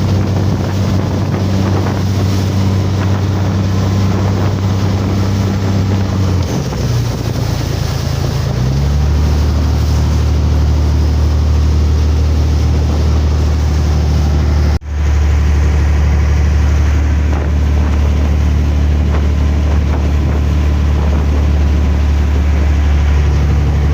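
Motorboat engine running under way, with wind buffeting the microphone and rushing water. About seven seconds in the engine note drops to a lower pitch as the boat throttles back, and it runs on steadily at that lower pitch. It breaks off for an instant about fifteen seconds in.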